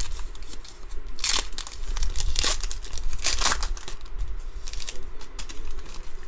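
Baseball trading cards being handled and slid across one another while flipping through a stack, giving several short, crisp rustles.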